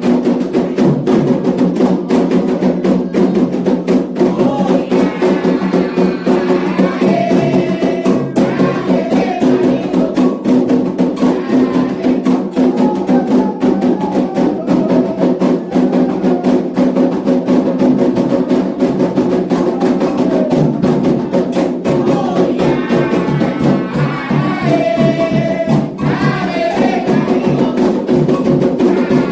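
Candomblé atabaque drums and a struck bell playing a fast, driving rhythm for Iemanjá. Sung phrases come in twice, in the first third and again near the end.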